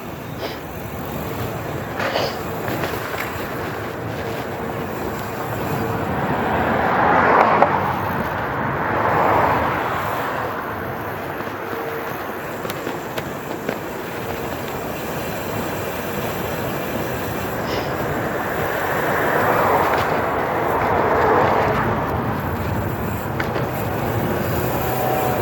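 Steady rushing noise from an e-bike ride, tyres rolling and air over the microphone, swelling louder twice, about a third of the way in and again near four-fifths through.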